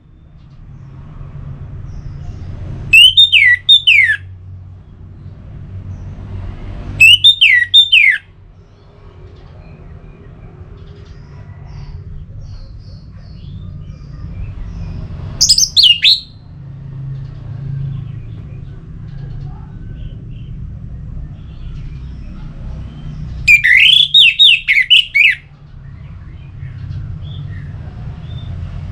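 Orange-headed thrush (anis merah) calling in short phrases of quick, falling whistled notes, one phrase every few seconds, the longest about 24 s in. A steady low hum runs underneath.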